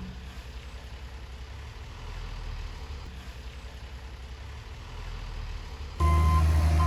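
Heavy diesel earthmoving machinery running with a steady low rumble. About six seconds in, the sound cuts abruptly to a much louder, close heavy diesel engine, and a reversing alarm begins beeping.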